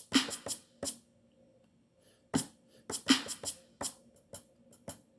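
Drum sounds from an Akai MPC One's Clouds kit played live on the pads: a loose, uneven run of short, sharp hits.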